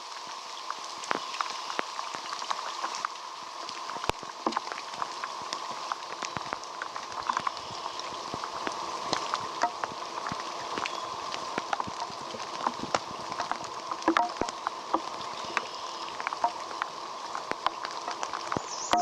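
Rain falling steadily, with many irregular drops tapping sharply on a surface close by.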